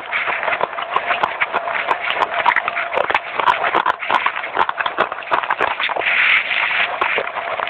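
Close-miked chewing of crunchy baked clay: dense, irregular crunches and crackles, a little brighter and harsher about six seconds in.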